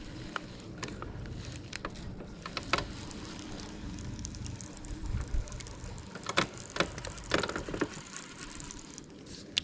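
Steady low wind and water noise around a small fishing boat, with scattered sharp clicks and knocks, several of them close together between about six and eight seconds in.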